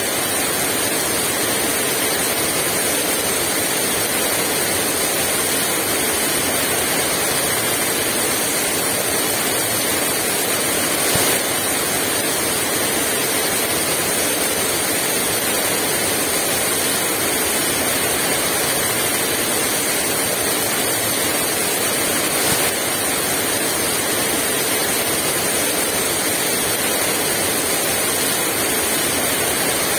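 Heavy rain falling steadily, a dense even hiss with no wind gusts.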